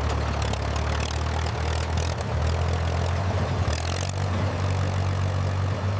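Engine running steadily with a low, even hum; it cuts in abruptly at the start.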